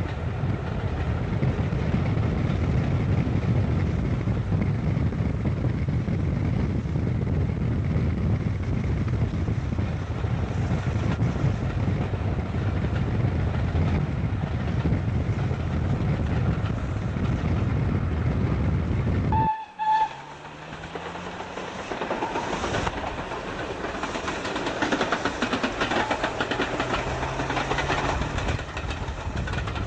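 Steam train running on the line, with a steady low rumble of travel for most of the time. About two-thirds of the way through, the sound cuts abruptly to a quieter, thinner train sound with a slowly sliding low tone.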